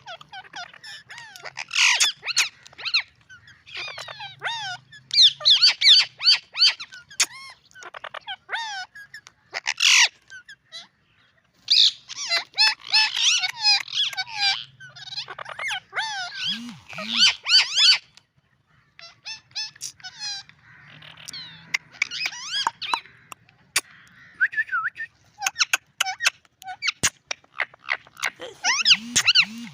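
Ring-necked parakeet chattering and squeaking in rapid calls that glide up and down in pitch, coming in bursts with short breaks between and the odd sharp click.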